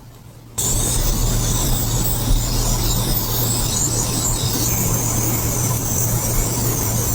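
An electric grooming appliance switched on suddenly about half a second in, its motor running steadily with a loud, even hiss over a low hum.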